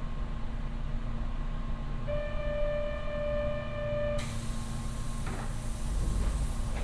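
Stationary electric train cab with a steady electrical hum; about two seconds in, a single steady beep sounds for about two seconds, and as it stops a hiss of released air starts and carries on, with a few light knocks after it.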